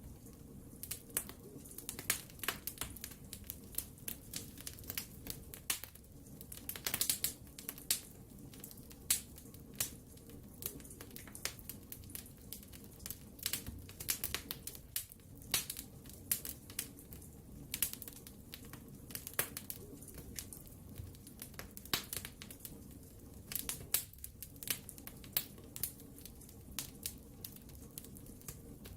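Wood fire burning in a fireplace: irregular sharp crackles and pops, several a second, over a soft steady hiss and low rumble of the flames.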